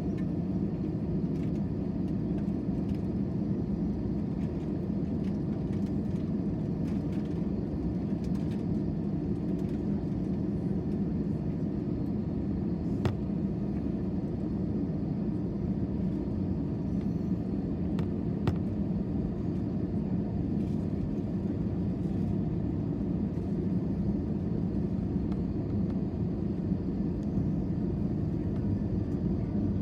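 Steady low rumble of a jet airliner's engines and airframe heard from inside the passenger cabin, with a couple of faint clicks.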